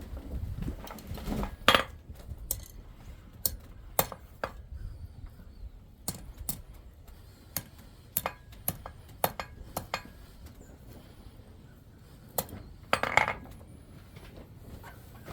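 Light metallic taps and clinks from small metalworking tools on metal, coming at uneven intervals rather than a steady hammering rhythm, with two louder clinks, one near the start and one near the end.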